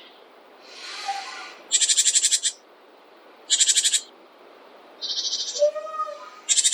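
Forest birds calling: short, fast, high-pitched rattling trills repeated about every two seconds, with a softer buzzy call between them near the end.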